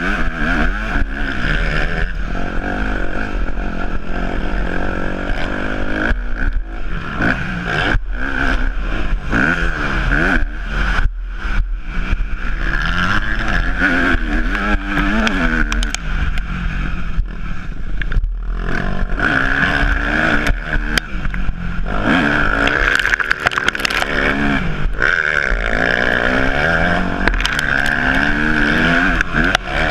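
Yamaha YZ250F's four-stroke single-cylinder engine being ridden hard, its pitch climbing and falling again and again as the throttle is opened and closed, with brief sharp breaks and knocks in between.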